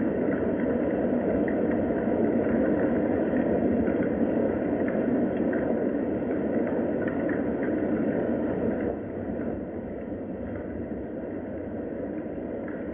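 Steady rain, a dense even patter with faint scattered drip ticks, dropping slightly in level about nine seconds in.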